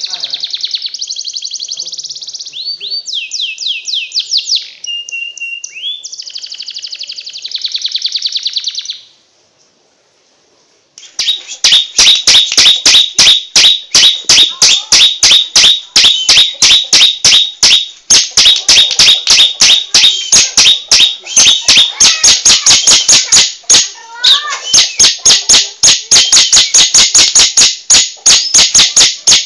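A recorded songbird's rapid chirping and trills. After a two-second pause a fast, even series of sharp chirps begins, about four or five a second, louder than the trills.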